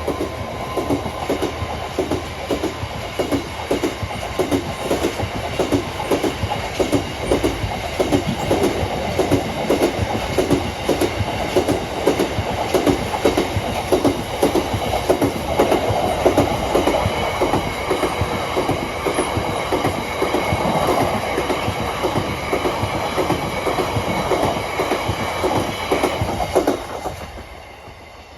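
Freight train wagons rolling past, their wheels clattering in an even rhythm over the rail joints. The sound drops away sharply near the end as the last wagon goes by.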